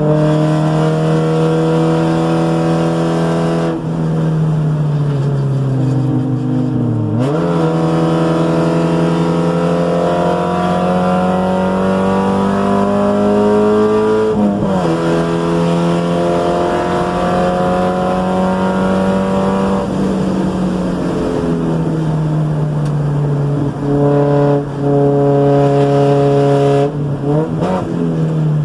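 In-car sound of a 1990 Spec Miata's 1.6-litre four-cylinder engine driving on a race track. Its note climbs slowly and drops sharply with a gear change about halfway through. A quarter of the way in and again near the end the pitch dips briefly and swings back up.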